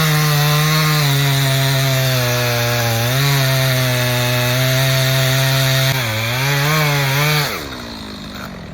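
Two-stroke chainsaw running at full throttle while bucking a felled tree, its pitch sagging twice as the chain loads up in the wood. Near the end the revs fall away.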